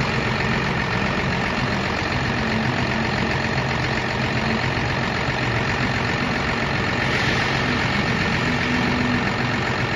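Cummins B5.9-C 5.9-litre inline-six engine running steadily at one speed, with no revving.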